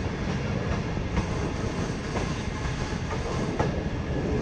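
Greenline Express passenger train running on the track: a steady rumble with sharp clacks from the wheels about every second.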